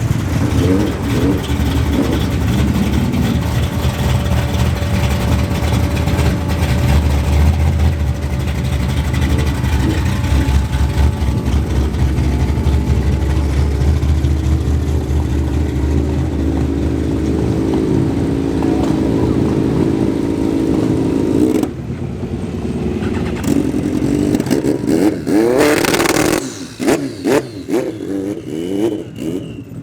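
American muscle cars and hot rods running past with a heavy, steady engine rumble. Near the end an engine revs up and down sharply, followed by choppier throttle blips.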